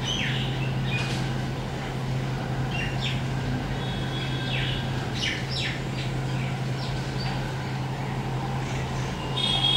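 Birds calling: short, downward-sweeping chirps scattered throughout, and a harsh buzzy call near the end, over a steady low hum.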